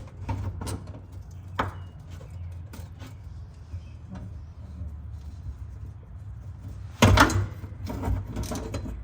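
Hand-tool work on an old car: scattered light clicks and knocks over a steady low hum, then a sudden loud clatter about seven seconds in as something on the car breaks.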